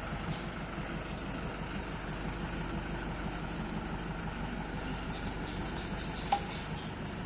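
A steady, low mechanical rumble like an engine running, with a single sharp click about six seconds in.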